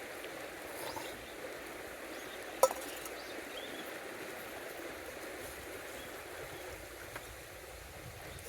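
A single sharp metallic clink of stainless camp cookware, ringing briefly, about two and a half seconds in, over a steady soft hiss.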